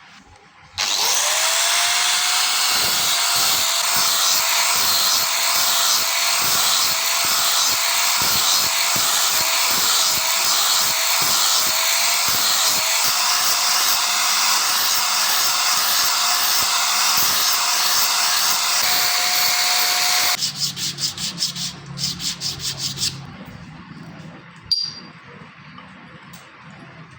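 An electric power tool spins up about a second in and runs steadily with a whine for about twenty seconds, then is switched in a quick series of short bursts. A single sharp knock follows near the end.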